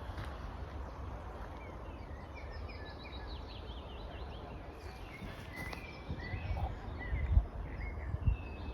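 Small birds chirping, many short quick calls, over a steady low rumble of wind on the microphone, with a couple of low thumps near the end.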